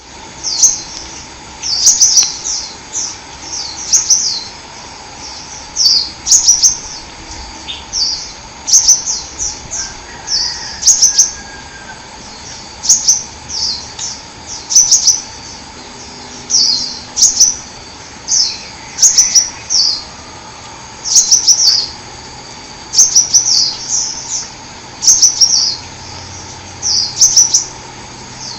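A sunbird singing: short, high, sharp chirping phrases repeated every second or two, over a steady faint hum.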